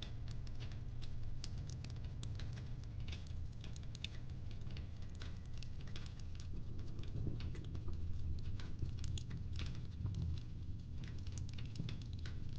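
Wood fire crackling: a dense, irregular run of small sharp snaps and pops over a low, steady rumble.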